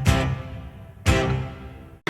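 Music: two strummed guitar chords about a second apart, each ringing out and fading, closing a country-style song.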